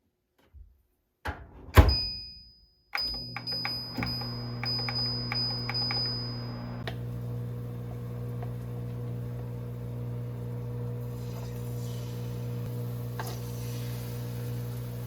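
Microwave oven: a door thunks shut, keypad beeps sound for a few seconds, then the oven runs with a steady low hum until it stops.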